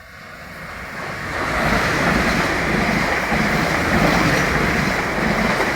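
Passenger train pulling into the station platform. Its rushing, rumbling noise builds over about two seconds and then holds loud and steady.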